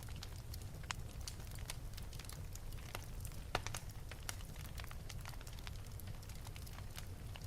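Wood fire burning in an open fireplace: irregular sharp crackles and pops over a steady low rumble of the flames, with one louder pop about three and a half seconds in.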